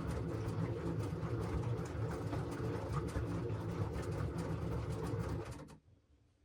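LG washing machine running, a steady low hum with a busy clatter of quick ticks over it, cutting off abruptly near the end.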